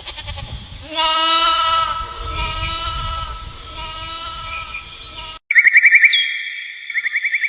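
A long, drawn-out animal call lasting about four seconds, over a low rumble. After a sudden cut, fast high chirping trills repeat.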